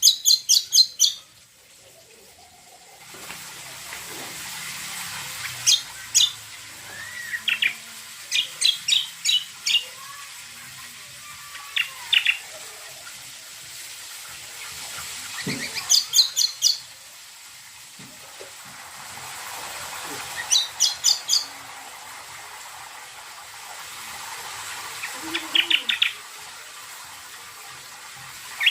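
Greater green leafbird (cucak kombo) song: short bursts of four to six rapid, high chirps, repeated every few seconds over a steady hiss.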